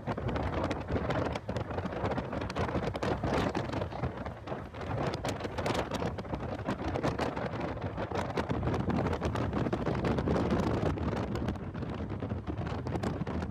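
Wind buffeting a microphone in a car at track speed: a steady rough rush thick with rapid crackles, covering the car's engine and road noise.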